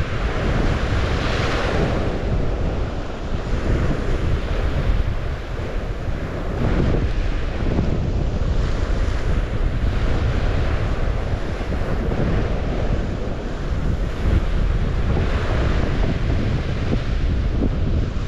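Waves washing in on the St. Lawrence shore, swelling and falling back every several seconds, with wind buffeting the microphone in a steady low rumble.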